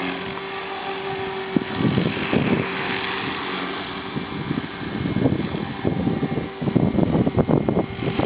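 Steady whine of an Align T-Rex 450 v2 electric RC helicopter's motor and rotor. From about two seconds in, uneven wind gusts buffet the microphone, heavier and choppier in the second half.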